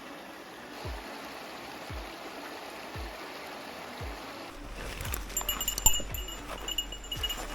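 Mountain stream running in a steady rush, with a soft low thump about once a second beneath it. About halfway through the sound changes abruptly to light clicks and high, ringing chime-like tones over a steady low hum.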